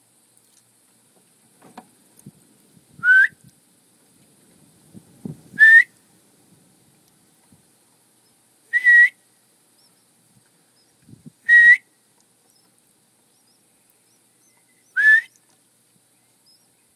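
A person whistling a short rising note five times, about every three seconds, a cue the nestlings have been trained to answer by gaping, with faint rustling between the notes.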